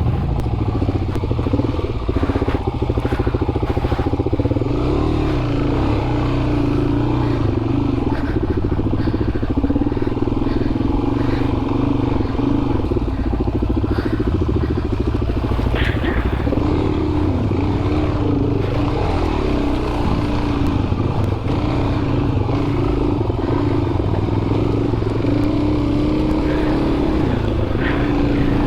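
Off-road motorcycle engine running steadily under throttle, its pitch rising and dipping a little, with a few brief knocks and clatter mixed in.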